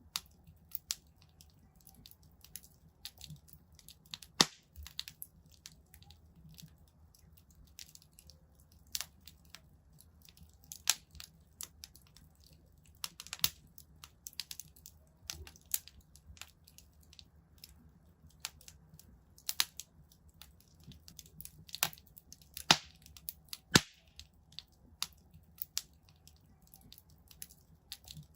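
Wood fire in a fireplace crackling, with irregular sharp pops and snaps, a few louder cracks among many small ticks, over a faint low hum.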